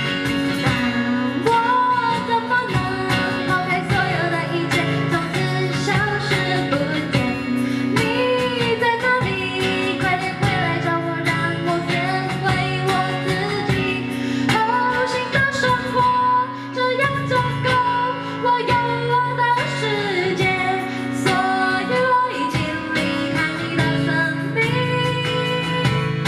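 A song performed by a band: a woman singing over guitar accompaniment.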